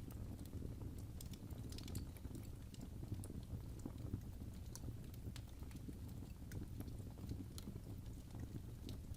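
Wood fire burning in a fireplace: a steady low rumble of flames with irregular small crackles and pops of burning wood throughout.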